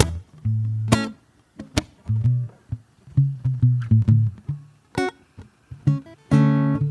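Acoustic guitar played slowly and sparsely: single low bass notes and plucked higher notes with gaps between them, then a fuller ringing chord near the end.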